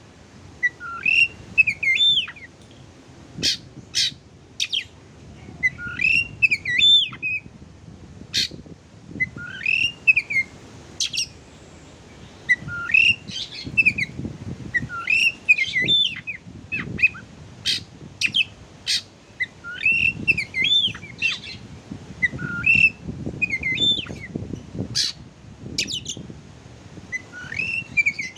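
Oriental magpie-robin (kacer) singing: short whistled phrases that sweep up and down, repeated every second or two, broken by sharp clicking notes.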